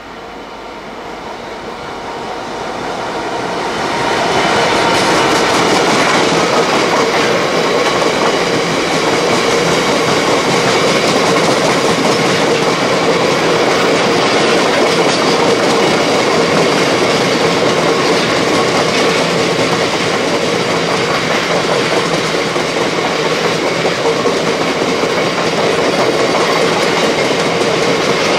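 Freight train passing close by: the noise builds over the first four seconds as it approaches, then the wagons roll past loudly and steadily, with a steady tone running through the noise.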